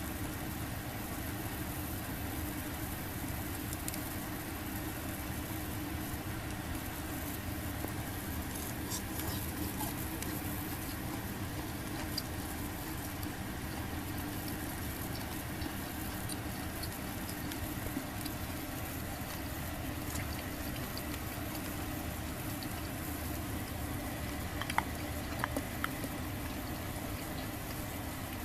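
Yakitori skewers grilling on a small tabletop fire pit: a steady sizzling hiss with scattered faint crackles and a few sharper ticks near the end, over a low steady hum.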